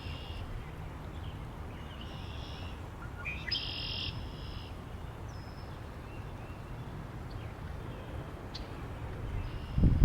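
Songbirds singing a few short, repeated phrases over a steady low wind rumble, the loudest phrase about four seconds in. A gust of wind comes up on the microphone just before the end.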